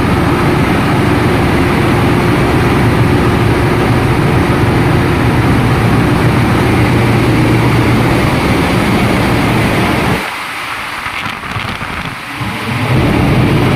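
Ship's engine-room machinery running, a loud steady drone with a low hum. About ten seconds in the low rumble drops away for a couple of seconds, then comes back.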